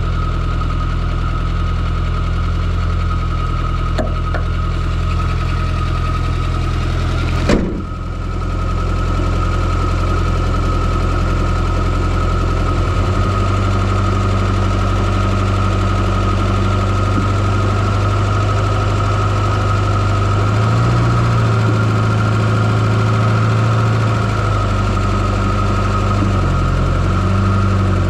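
Fiat Coupé 2.0 16V turbo four-cylinder engine running steadily, heard up close from inside the engine bay, with a steady high tone above the engine note. About seven and a half seconds in there is one sudden sharp sound, after which the level dips briefly and recovers.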